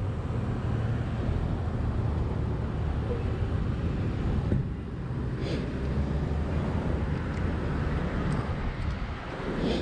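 Motorcycle running along the road: a steady low engine drone with road and wind noise on the rider's camera.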